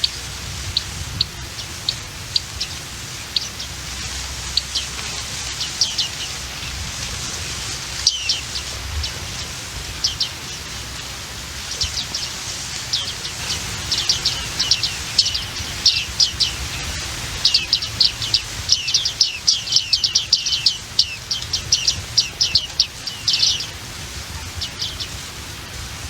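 Small songbirds chirping: short, high, down-slurred chirps, scattered at first, then coming in quick runs of many notes from about halfway in. A steady hiss lies beneath.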